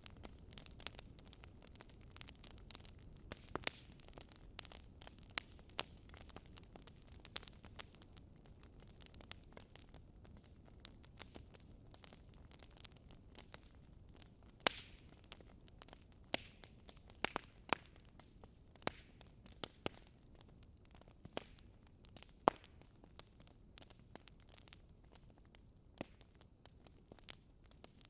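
Wood fire crackling and popping in a fireplace: irregular sharp pops over a soft low hiss, with a few louder pops about halfway through and again near the end.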